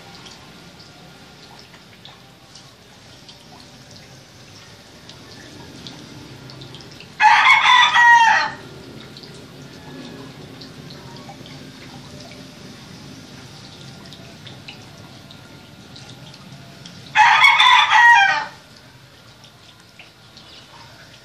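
A rooster crowing twice, each crow about a second and a half long, the two about ten seconds apart.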